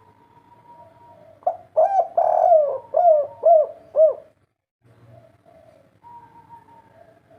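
Spotted dove (tekukur) of the 'kuk 3' type cooing: a loud phrase of about six short, rounded coos in quick succession, starting about one and a half seconds in, with fainter cooing before and after it.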